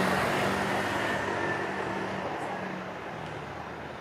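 Street traffic: a motor vehicle passing with engine hum and road noise that grows steadily fainter as it moves away.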